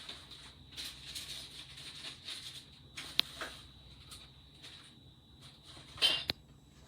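Handling noises: intermittent rustling with a sharp click about three seconds in and a louder brief scrape near the end.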